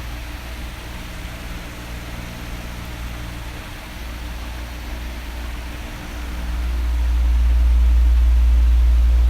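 Electric fan running with a steady whooshing whir over a low hum. About two-thirds of the way through, a low rumble of moving air swells louder and stays up, as an oscillating fan's airflow sweeps across the microphone.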